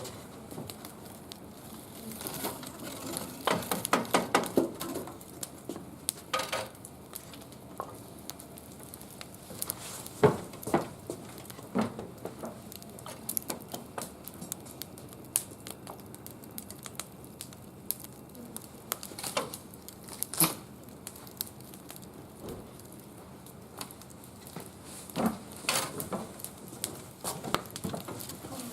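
Wood fire crackling, with irregular sharp pops and snaps over a low hiss: a quick run of snaps about four seconds in, and the loudest single pop about ten seconds in.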